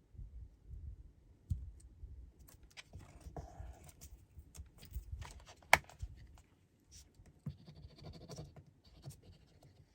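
Paper being handled and scratched on at a craft table: short scratchy rubs, like a marker coloring on cardstock, with scattered light clicks and one sharp click about six seconds in.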